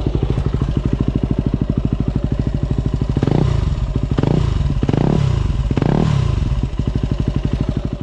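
Yamaha WR250R's single-cylinder four-stroke engine idling, blipped four times in quick succession about three seconds in, each rev rising and falling back to idle.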